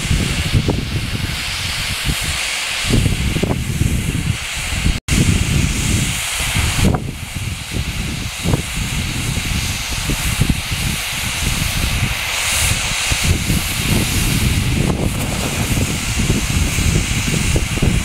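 Fireworks going off without a break: a continuous hiss and crackle over a dense run of pops and bangs. The sound cuts out for an instant about five seconds in.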